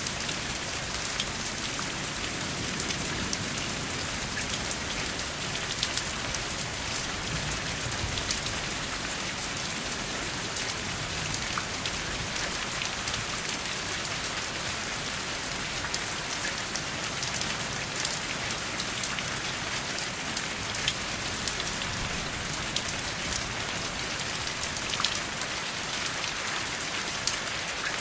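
Steady rain falling, an even hiss with many separate drop hits scattered through it, and no thunder.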